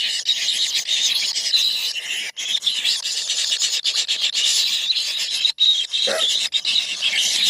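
Four tengke bird nestlings inside their nest hole giving a continuous, rasping begging chorus of many short overlapping calls. A short lower sound comes about six seconds in.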